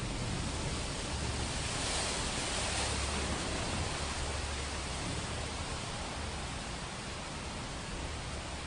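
Steady rain: a dense, even hiss with a low rumble underneath, swelling a little about two to three seconds in.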